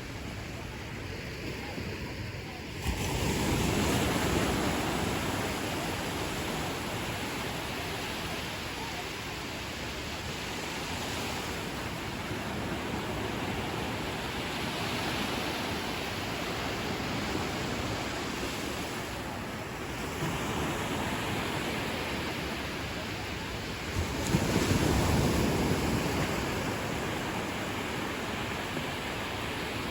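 Ocean surf washing steadily onto a beach, with two louder waves breaking about three seconds in and again near the end.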